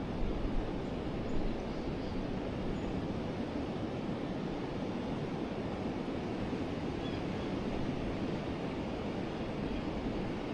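River water flowing steadily, a constant even rushing noise with no breaks.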